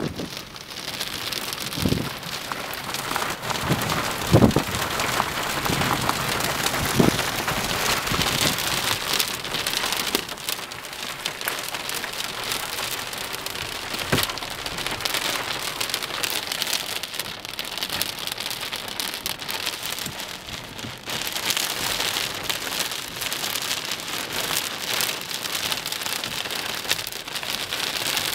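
Heavy rain falling steadily, a continuous hiss broken by a few sharper single knocks of drops striking close by.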